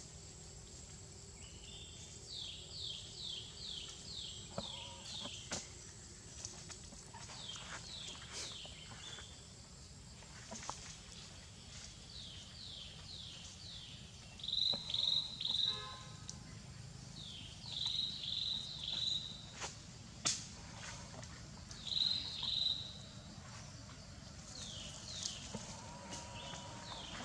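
Forest ambience: bird calls in runs of short falling notes, about two a second, and louder short bursts of high calls a few times. A faint steady high insect tone runs underneath, with a few sharp clicks.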